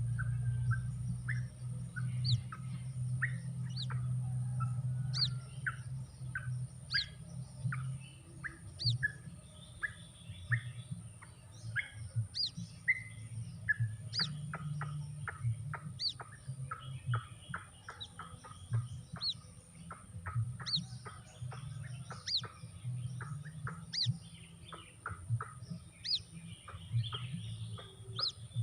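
White-breasted waterhen chick peeping, used as a lure to draw in the adult birds: a long run of short, high chirps falling sharply in pitch, several a second, over a low steady hum.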